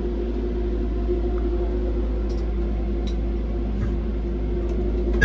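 Interior running noise of a Docklands Light Railway B92 light-rail train: a steady hum with one constant tone over a low rumble of the wheels on the track.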